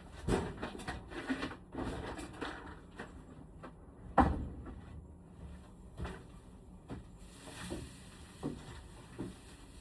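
Scattered knocks and clicks of hard objects being handled, with one sharp knock about four seconds in.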